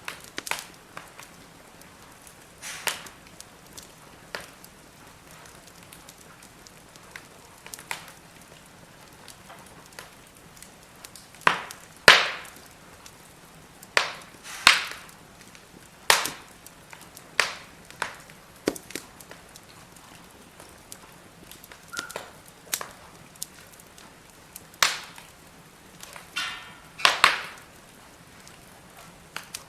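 Firewood burning in a fire brazier, crackling with sharp, irregular pops every second or two over a faint hiss.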